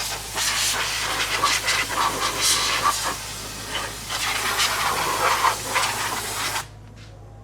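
Compressed air hissing from a blow gun in uneven surges, cutting off suddenly about six and a half seconds in.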